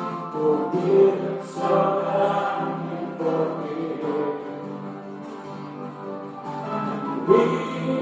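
A group of voices singing a slow worship song over held instrumental chords.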